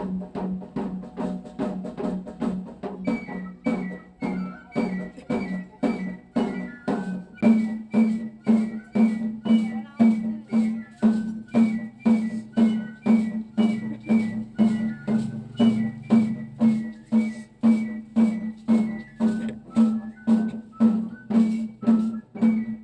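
Danza sonajera music: a drum and shaken sonaja rattles strike together in a steady pulse of about two beats a second, under a short-noted high melody line. The beat grows louder about seven seconds in.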